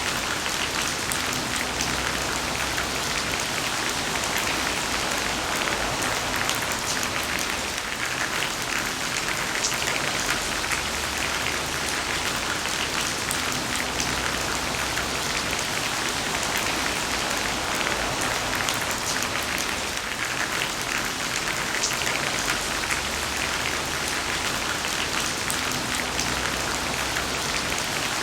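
Heavy rain falling steadily: a dense, even hiss with the sharp taps of individual drops hitting a surface.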